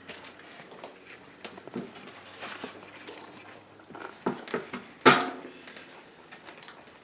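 Table eating sounds from people eating burgers and fries: scattered small clicks and rustles, with one louder short sound about five seconds in.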